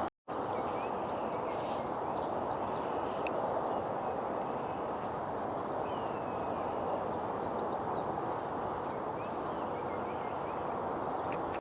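Songbirds giving scattered short chirps and quick falling call notes, faint over a steady outdoor rushing noise, with a brief dropout just after the start.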